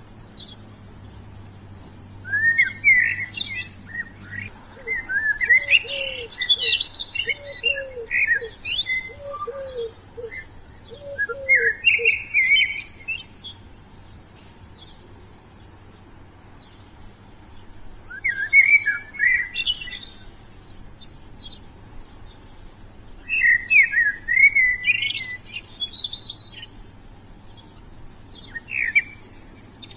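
Wild songbirds singing in bursts of a few seconds: quick, high, sweeping chirps and warbles, with pauses between phrases. Between about five and twelve seconds in, a row of about nine lower, falling notes repeats evenly beneath the song, over a steady high hiss.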